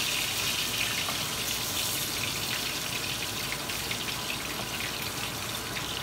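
Whole menpachi (soldierfish) pan-frying in hot oil: a steady sizzle with small crackles and pops.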